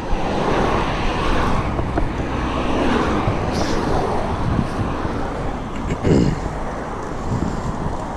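Road traffic going by on a busy street: a steady wash of car and tyre noise that swells now and then as vehicles pass, the largest about six seconds in.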